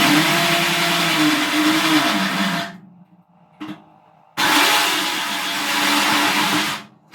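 Electric drill spinning a hole saw into a steel drum in two bursts of about two and a half seconds. The motor's pitch sags under load near the end of the first burst; the saw is struggling to cut through the steel.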